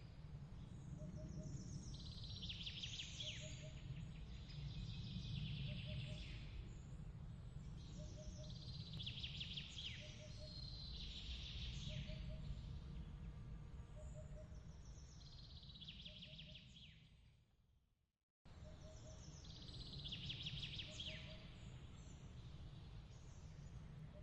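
Night ambience of high, downward-sweeping bird chirps in clusters every two or three seconds, with a faint double chirp repeating about every second and a half, over a steady low rumble. About three-quarters of the way in, the sound fades out to silence and cuts straight back in.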